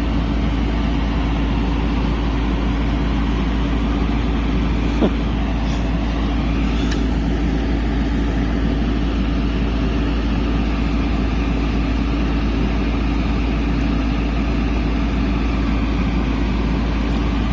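Off-road 4WD engine running steadily, a continuous low drone with no change in pitch. A single short click about five seconds in.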